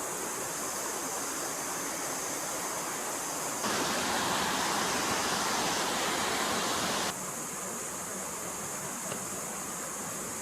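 Flowing stream water rushing steadily. About a third of the way in it suddenly becomes louder and brighter, then drops back just as abruptly about two-thirds of the way through.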